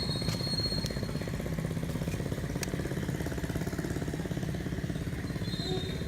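A small engine idling steadily, with a fast, even pulse.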